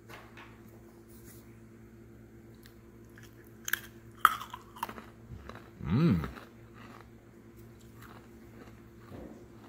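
Crunchy cinnamon graham cracker snacks being bitten and chewed, with several crisp crunches a few seconds in. About six seconds in comes the loudest sound, a brief hum that rises and falls in pitch.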